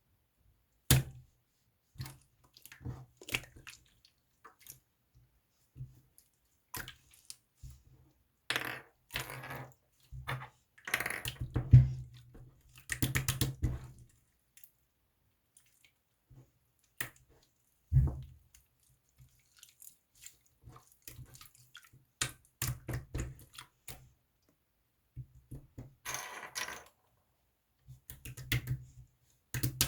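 Slime being squished and poked by hand, making sticky wet pops and crackling clicks in irregular bursts, with short quiet gaps between.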